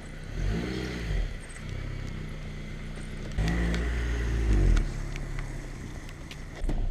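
Car engine swelling up and back down in pitch twice, each swell about a second long, over a steady low engine hum.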